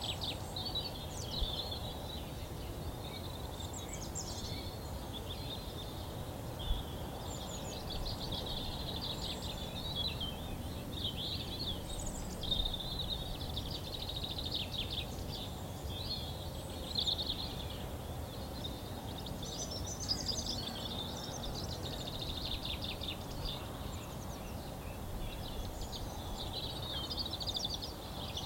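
Several wild birds singing together, a continuous chorus of overlapping high chirps and trills, over a steady low background rumble.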